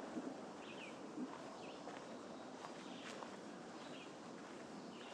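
Footsteps on a garden trail, a few soft steps near the start, with short bird chirps recurring every second or so over a steady outdoor hiss.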